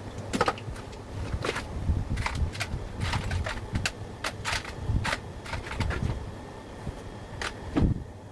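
Irregular clicks and light knocks, about a dozen, over a steady low hum, with a louder knock near the end.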